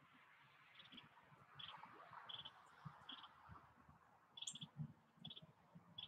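Faint, short, high chip notes from a bird, repeating about every three-quarters of a second, over soft low taps from a mourning dove pecking seed close to the microphone.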